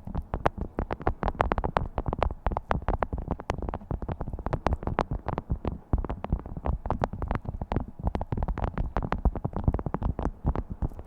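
Beeswax food wrap being crinkled and handled close to the microphone: a dense, continuous crackling of many sharp crinkles a second.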